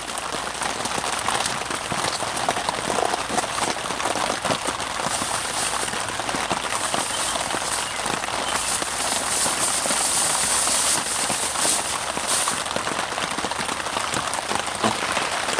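Rain pattering steadily on a tarp shelter, a dense hiss of many small drop impacts that swells somewhat in the middle.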